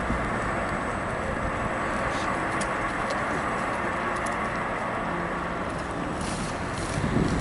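Riding noise on a Ninebot One S2 electric unicycle: steady wind and tyre rumble, with a brief louder rumble about seven seconds in.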